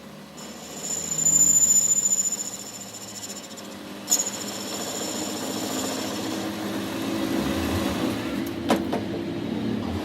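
A machine running, louder for a moment in the first couple of seconds, with a sharp click about four seconds in and a steady hum for the second half.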